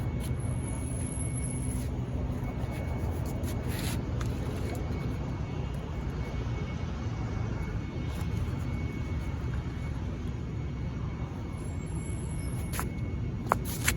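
A steady low motor-vehicle rumble with a faint high whine above it, and a couple of sharp clicks near the end.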